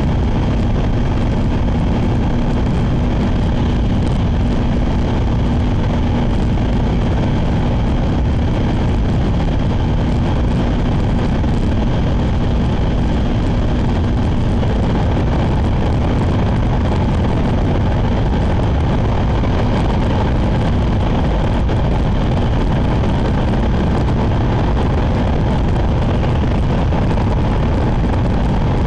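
Shinkansen bullet train running at speed, heard from inside the passenger car: a steady, loud, low-pitched running noise with a faint steady hum that fades out about halfway through.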